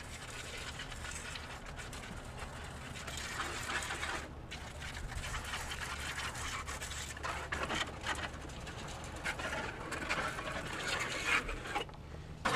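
Hand pump sprayer hissing as it mists a diluted detailing solution onto an engine bay. The spray stops briefly a little over four seconds in and again near the end.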